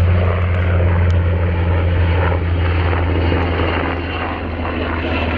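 Military aircraft engines droning with a strong, steady low hum, easing off slightly about four seconds in.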